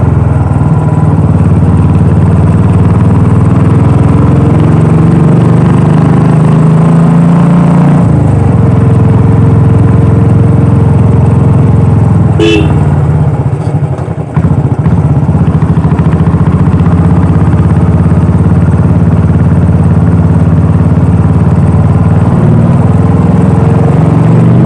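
Royal Enfield Classic 350's single-cylinder engine and exhaust running under way as the motorcycle is ridden, the engine note shifting in pitch with throttle. A brief beep sounds about halfway through, and the engine note drops away for a moment just after.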